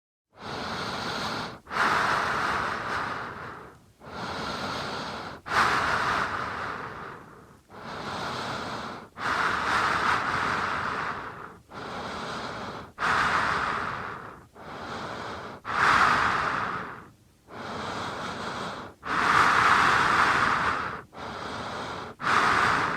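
A person taking slow, deep breaths, in and out, about four seconds per full breath, each breath a breathy rush of air with quieter and louder halves alternating.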